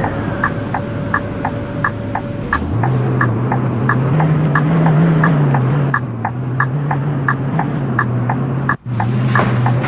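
Scania K230UB bus engine pulling away. The engine note comes in about three seconds in, rises a little, then settles, over a steady rhythmic clicking of about three ticks a second.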